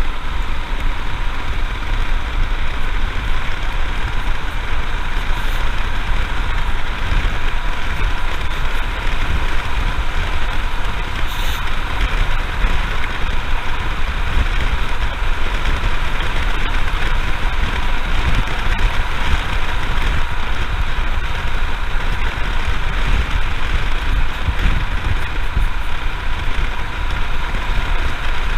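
Royal Enfield Himalayan motorcycle running steadily at road speed, heard from the rider's position. The engine note is mixed with a constant rush of wind and low buffeting on the microphone.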